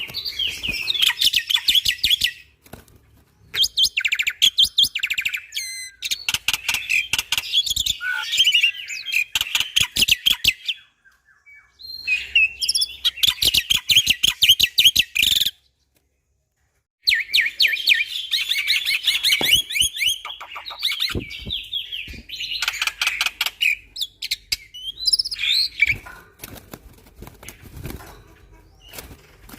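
Black-winged myna (jalak putih) singing at length in fast, chattering strings of sharp notes. The song comes in long bouts with short breaks about 3 and 11 seconds in, and stops dead for over a second midway.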